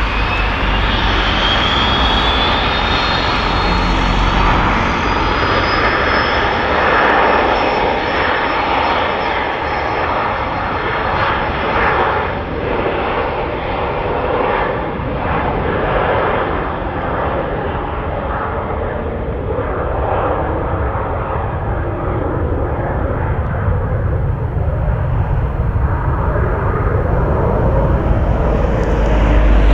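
Jet airliner's engines running loud for the whole stretch, a broad roar with a thin whine that rises in pitch over the first five seconds or so and then holds steady.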